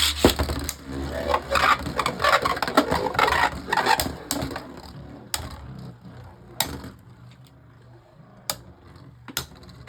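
Beyblade Burst spinning tops, Harmony Pegasus against Rock Dragon, clashing in a plastic stadium. A dense clatter of hits and scraping runs for about the first four seconds, then a sharp single knock comes every second or so.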